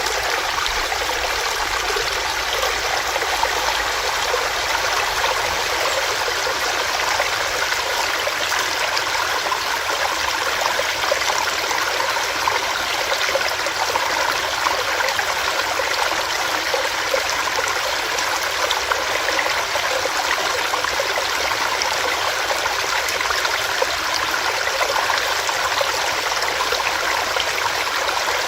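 Small stream running over rocks: a steady, even rush of water.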